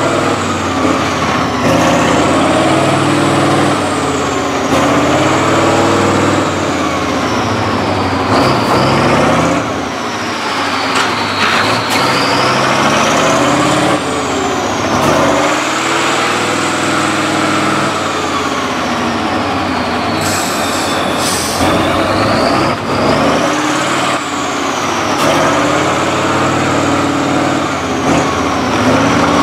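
Tractor engine revving hard, its pitch climbing and dropping again and again every few seconds, with a high whine that rises and falls along with it, as it works through mud.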